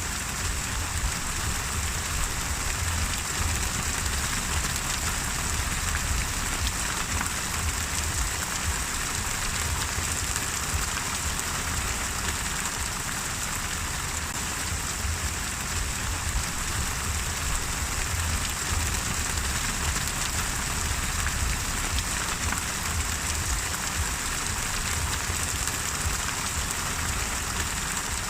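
Steady rain falling on a surface, an even hiss of many drops with a low rumble underneath.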